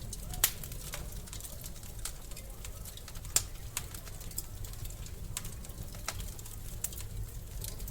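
Wood fire crackling in a fireplace: irregular sharp pops and snaps over a steady low rumble, the loudest pop about three and a half seconds in.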